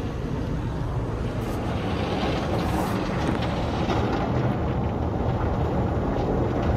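Tunnel car wash heard from inside the car's cabin: soft cloth brushes scrubbing the body along with water spray, a steady dense wash of noise with brief brighter hisses of spray.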